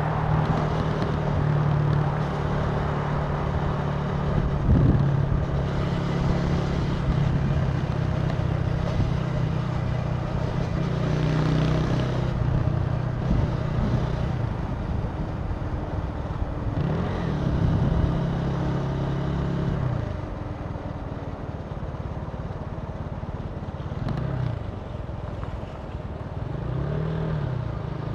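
Italika TC300 motorcycle engine running under way, with wind and road noise; its pitch rises and falls several times as the throttle is opened and closed.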